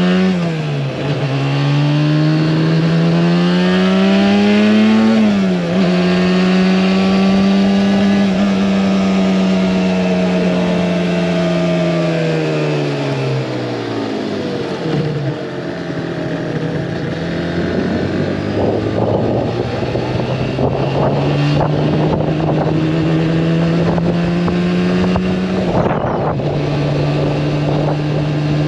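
Yamaha R1-Z's two-stroke parallel-twin engine under way. It revs up, drops sharply at a gear change about five seconds in, holds a steady note, then falls away as the bike slows and settles to a lower, steady running note.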